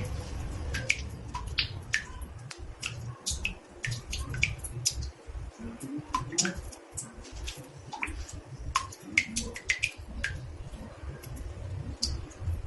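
Water drops falling into a bathtub: many short plinks a second at varied pitches, in an irregular rhythm, with a low rumble underneath.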